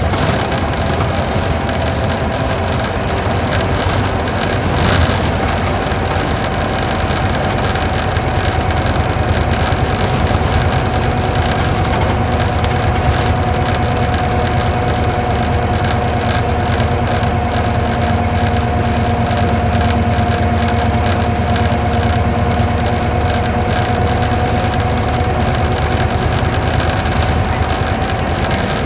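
Isuzu Gala coach's V-type engine running steadily, heard inside the cabin with road noise and a steady whine; a single knock about five seconds in.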